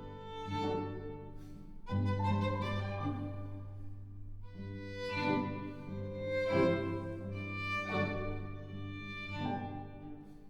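Live chamber music: violin and cello playing sustained notes with piano, in a slow passage with a new note or chord about every second or so.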